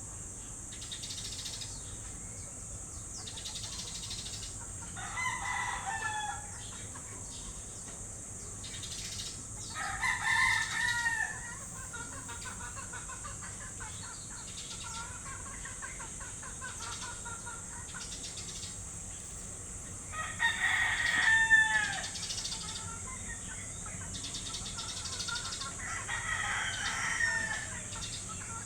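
A rooster crowing four times, each crow lasting about a second and a half, with fainter bird chirps between the crows over a steady high hiss.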